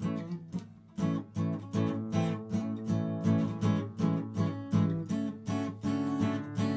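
Acoustic guitar strumming chords in a steady rhythm, about two to three strums a second after a first strum and a short pause.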